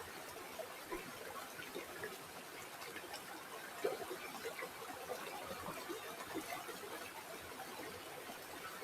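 River water flowing, a steady babble made of many small gurgles and splashes.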